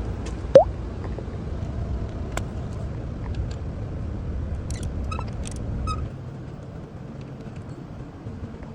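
A car engine runs with a low rumble that drops away about six seconds in. A short, sharp rising squeak comes about half a second in, and two short beeps sound around five and six seconds.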